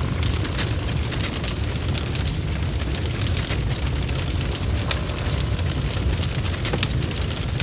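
Wood fire crackling, with many small sharp pops and snaps over a steady low rumble of burning.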